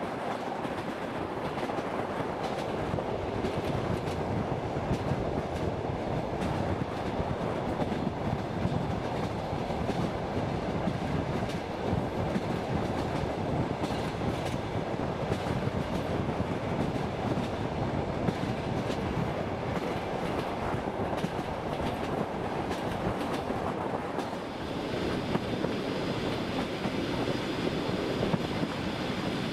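Passenger train running along the track: a steady rumble of wheels on rails with scattered clicks over the rail joints. About 24 seconds in, the sound dips briefly and then turns brighter, with more hiss.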